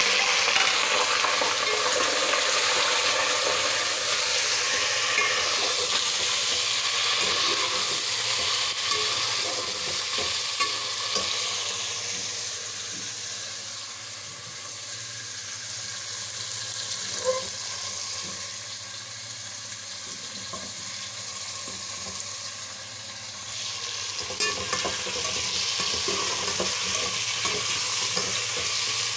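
Raw chicken pieces frying in hot oil with browned onions: a steady, loud sizzle, with now and then a spoon stirring and clicking against the pot. The sizzle eases off in the middle and grows louder again near the end.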